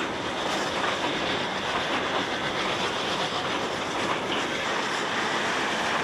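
A train running along the track, with a steady, even running noise.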